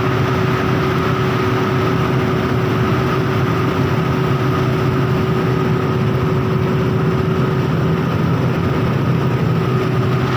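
Steady vehicle engine and road noise: a constant hum with an even hiss over it, unchanging throughout.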